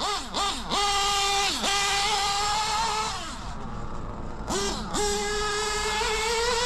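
LRP28 4.6cc eight-port nitro engine running on a rich break-in setting, revved in bursts: its high whine climbs and holds for a couple of seconds, drops back to a lower idle, then climbs and holds again before falling off near the end.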